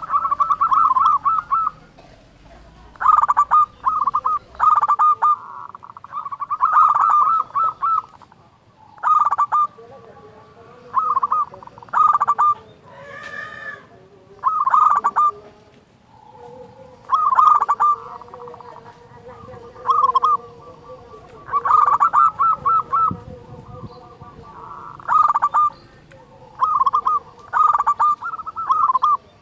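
Zebra doves (perkutut) cooing in a loud, steady run of quick rolling coo phrases, one every second or two, with a softer, lower drawn-out coo under some of them. A brief higher call cuts in about 13 seconds in.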